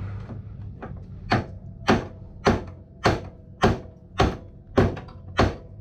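Hammer blows on metal in a steady rhythm, a little under two strikes a second, starting about a second in; each blow leaves a faint metallic ring.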